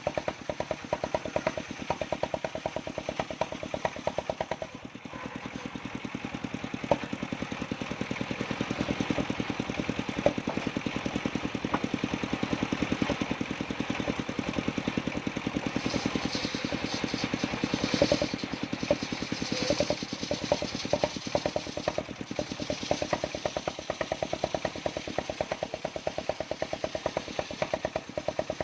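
Engine of a mobile circular sawmill running steadily under load, a fast, even beat, as the blade rips jowar (Siamese cassia) timber. The sound dips briefly early on, and a brighter, hissier cutting sound comes up for a few seconds a little past the middle.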